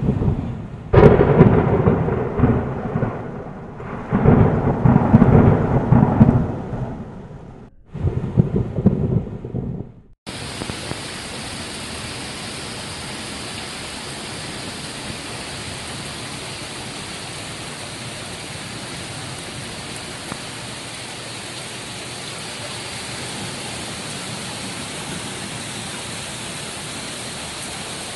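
Thunder rumbling in several loud peals over rain, then, after an abrupt cut about ten seconds in, the steady hiss of heavy rain.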